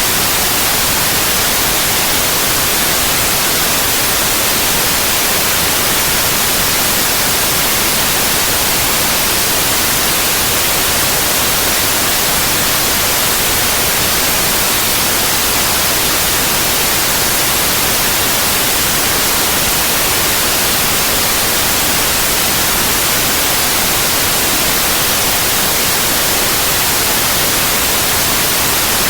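Steady white noise: an even, unbroken hiss across the whole range, brightest in the high end.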